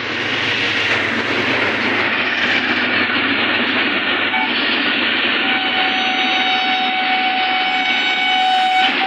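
Pakistan Railways express train running past at speed, with a loud, steady rush of wheels on the rails. About halfway through, a steady horn starts and holds.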